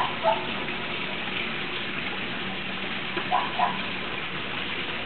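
Steady rain falling, heard as an even hiss. Two pairs of short high-pitched sounds cut through it, one pair at the start and one about three and a half seconds in.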